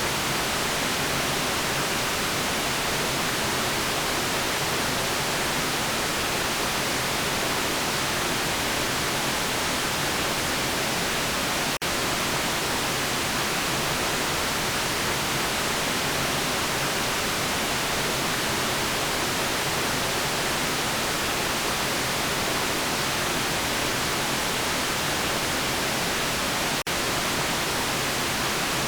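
Steady synthetic white noise: an even, unchanging hiss. There are two very brief dropouts, about 12 seconds and 27 seconds in.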